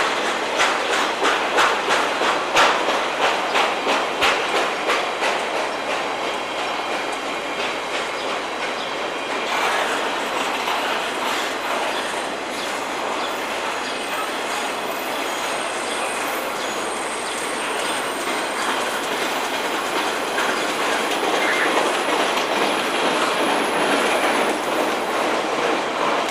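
Freight train cars rolling past, wheels clicking rapidly over rail joints for the first several seconds. The sound then settles into a steadier rolling noise, with thin, high wheel squeals from about halfway in.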